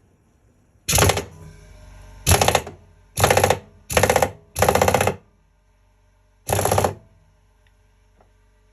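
Impact driver run in six short trigger bursts, each a fast rattling hammering, as it works on screws in the washing machine; the last burst comes after a pause of over a second.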